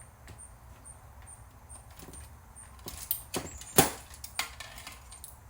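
Clicks and knocks of plastic and metal VCR parts being handled during disassembly: a few sharp knocks in the second half, the loudest about four seconds in.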